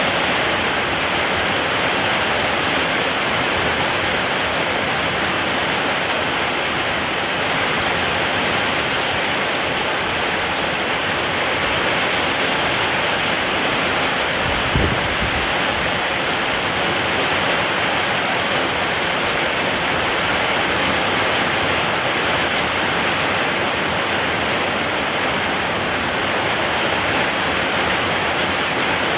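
Steady, heavy rain hissing without a break, with one short low thud about halfway through.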